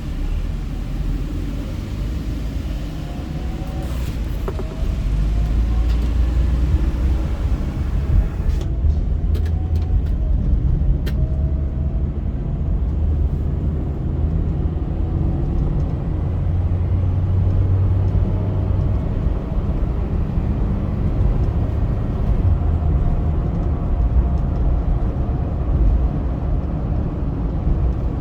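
Car driving along a motorway: a steady low rumble of engine and tyres on the road, with faint rising engine tones. The higher hiss thins out about eight seconds in.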